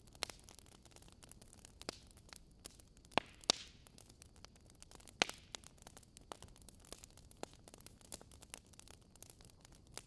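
Wood fire crackling: logs burning on glowing embers, with frequent small snaps over a faint steady hiss. A few louder pops come about three, three and a half and five seconds in, the second trailing a brief hiss.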